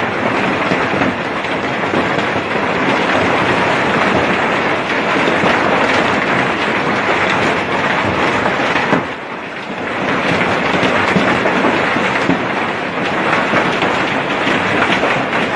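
Heavy rain with hailstones pelting down: a loud, dense clatter of countless impacts. It eases briefly about nine seconds in, then comes back just as hard.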